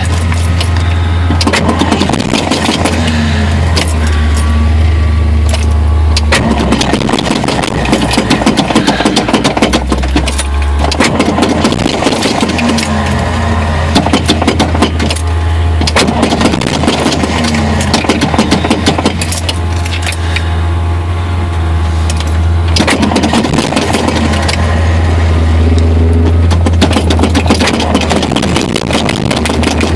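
Ford 302 carbureted V8 being cranked over on its starter in a hard cold start, choked, not catching. The cranking runs in spells with a few short pauses, on a starter the owner says needs replacing.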